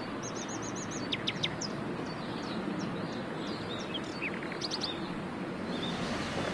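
Small birds chirping over a steady background rush of outdoor noise: a quick run of about six high chirps near the start, then scattered short chirps and quick falling whistles.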